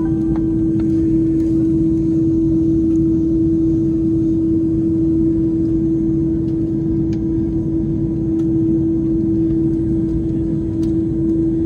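Steady drone inside the cabin of an Airbus A330-300: a low rumble with one constant hum running through it, unchanging throughout, with a few faint ticks.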